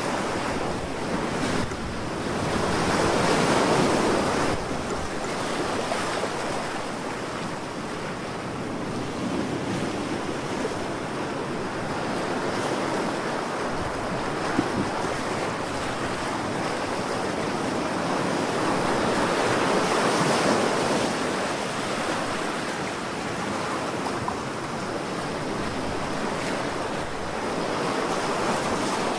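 Continuous rushing noise that slowly swells and eases every several seconds, with no distinct tones or knocks.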